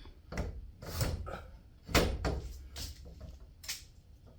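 A run of sharp metallic knocks and clanks, about seven in four seconds at uneven intervals, from garage door torsion spring hardware being handled and fitted onto its mounting bracket.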